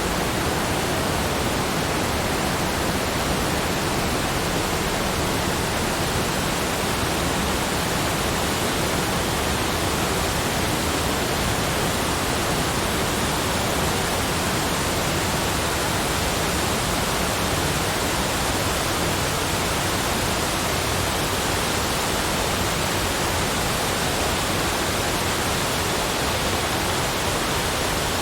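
Steady, even rushing noise that spreads evenly from low to high pitches, with no separate events and no change in level.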